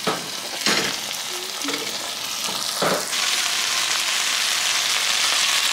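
Chicken breasts sizzling as they fry in a nonstick skillet, a steady hiss that grows louder about three seconds in, with a couple of brief knocks along the way.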